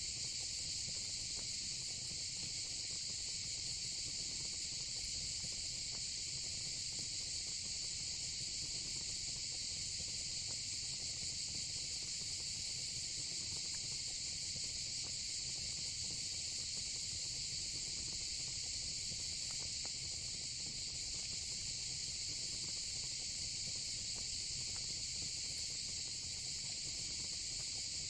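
Steady, unbroken insect chorus of crickets shrilling at a high pitch, over a low, even rumble with a few faint crackles from a fire pit.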